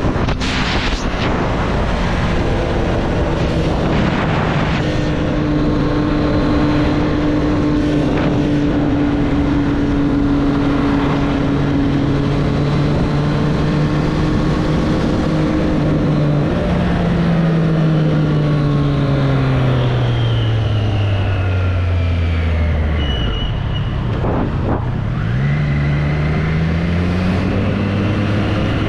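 2024 Triumph Street Triple's 765 cc inline three-cylinder engine running at steady revs, then falling in pitch over several seconds as the bike slows, and rising again in the last few seconds as it accelerates.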